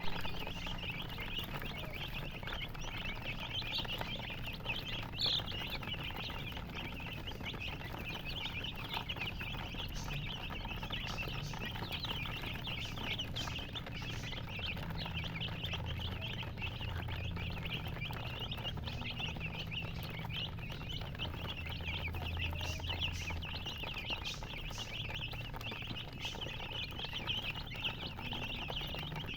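A crowd of baby chicks peeping without pause, a dense chorus of short, high cheeps.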